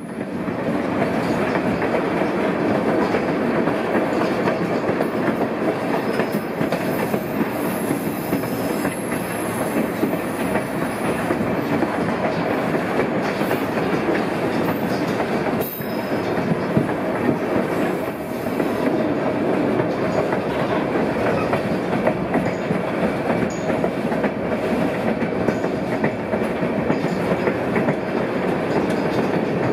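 White Pass & Yukon Route narrow-gauge passenger train rolling along the track, heard from the side of a moving car: a steady rumble of wheels on rails with a clickety-clack rhythm.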